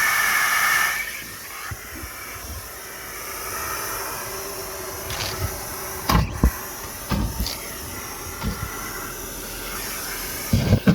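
Car wash vacuum hose rushing with a steady hiss, louder for about the first second. From about six seconds in, sharp clacks and rattles come through as debris is sucked up the hose.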